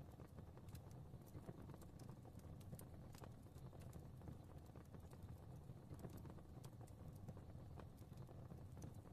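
Fireplace fire crackling faintly: scattered, irregular pops and snaps over a low steady rumble of flames.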